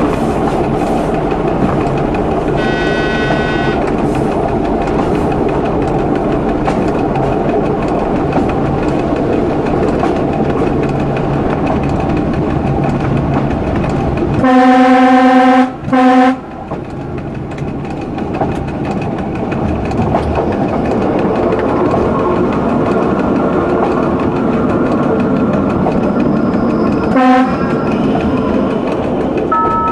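Local train running along the track, heard from the driver's cab as a steady rumble with wheel clatter. About halfway the train horn sounds loudly, a long blast followed by a short one; a brief high beep comes a few seconds in, and a short horn toot near the end.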